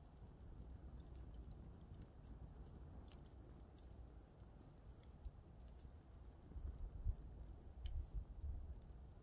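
Wood campfire crackling faintly: scattered small snaps and pops over a low rumble that grows louder about seven seconds in.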